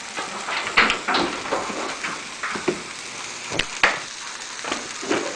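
A spoon or spatula knocking and scraping in a pan of onions frying in butter, with a few sharp clinks over a faint sizzle.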